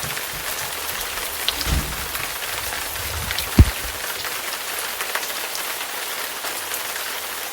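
Steady rain falling, an even hiss of many small drops. A single low thump about halfway through is the loudest moment.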